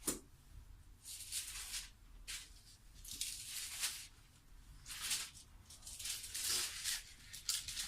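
Paper pages being turned: a series of short, dry rustles and flicks, one after another.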